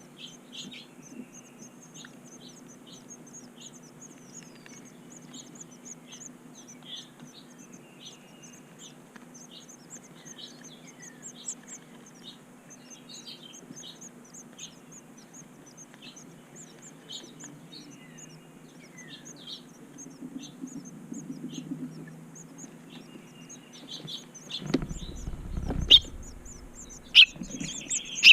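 Small birds chirping in quick, repeated short high notes, with a faint low hum underneath. Near the end a low rumble and a couple of sharp knocks stand out as the loudest sounds.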